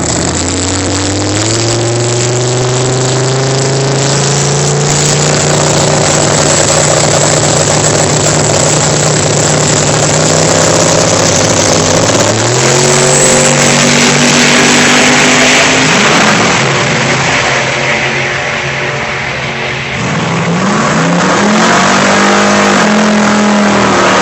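Drag-racing truck's engine revving up and holding high, steady revs. It climbs higher about halfway through, drops back and quietens around three-quarters of the way through, then climbs again near the end.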